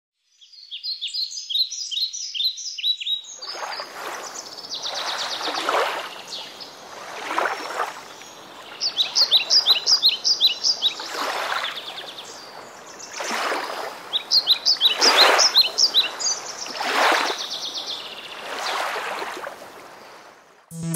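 Small songbird chirping in quick trilled phrases, heard in three bouts. From a few seconds in it sits over a rhythmic swishing that swells and fades about every two seconds.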